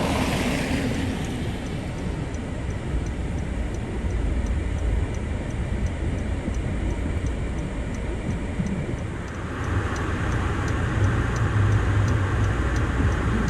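An engine running with a steady low rumble. A louder, fuller hum comes in about two-thirds of the way through.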